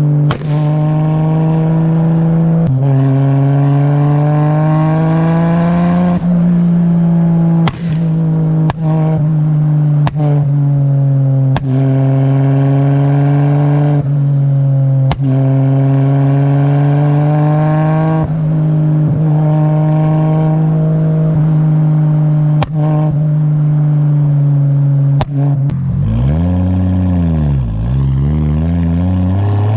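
Straight-piped RB30 turbo straight-six held at steady revs, broken by sharp exhaust bangs every second or so, the bangs of a tune with heavily retarded deceleration timing and fuel cut switched off. Near the end the revs drop and climb again.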